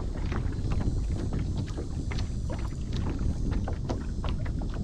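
Wind buffeting the microphone with a low rumble, and small waves slapping and ticking against the hull of a small fishing boat.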